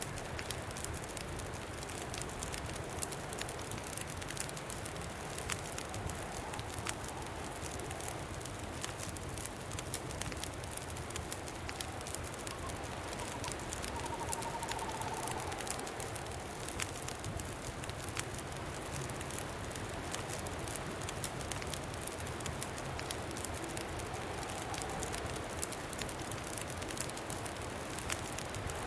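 Campfire crackling with many small sharp pops over a steady rush of wind. A faint wind whistle rises and fades away a few times.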